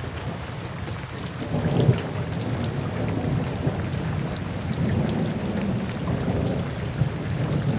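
Steady rain falling, with scattered drop ticks over a low rumble that swells a little under two seconds in.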